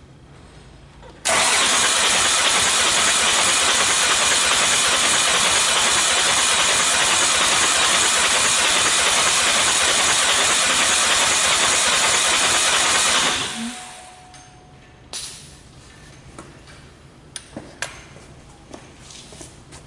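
Hyundai/Kia D4CB 2.5-litre four-cylinder diesel running on a test stand outside the car during a compression check. It comes in abruptly about a second in, runs loud and steady for about twelve seconds, then is shut off and dies away. A few light clicks follow.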